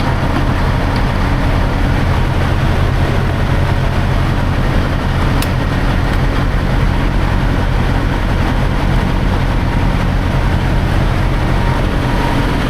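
Semi-truck diesel engine running steadily, a constant sound weighted to the low end.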